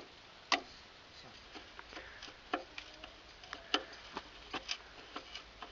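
Irregular light clicks and taps of hard plastic parts and hardware being handled as the wind generator's cap is fitted and fastened, with one sharper knock about half a second in.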